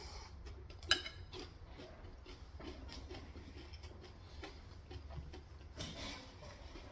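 Quiet mukbang eating sounds: scattered small clicks and taps from chewing fried chicken and handling food and utensils, with one sharper click about a second in and a short louder noise near the end.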